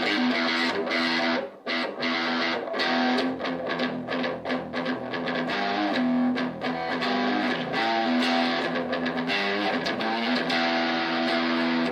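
Donner DST-100 electric guitar strummed through its small 3-watt Donner practice amp, a run of chords that cuts off abruptly at the end.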